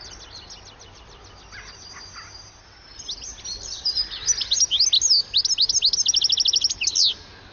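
European goldfinch twittering. Faint scattered chirps give way about three seconds in to a loud run of liquid, tinkling calls and fast trills, which stops shortly before the end.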